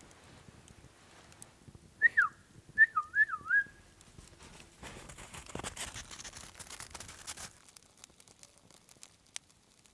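Loud whistled call: a short falling swoop, then a quick run of up-and-down swoops. A few seconds later comes a stretch of rustling and crunching.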